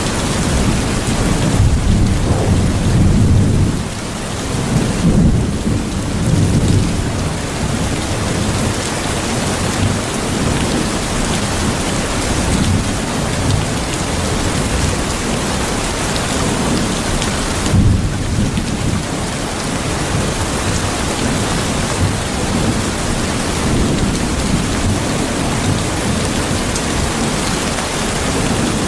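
Steady heavy rain with low rolls of thunder, swelling about two to seven seconds in and again briefly past the middle.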